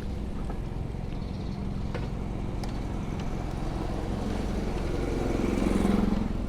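Street traffic with a motor vehicle passing close by, its engine and tyre noise swelling to a peak about six seconds in and then falling away, over a steady low rumble.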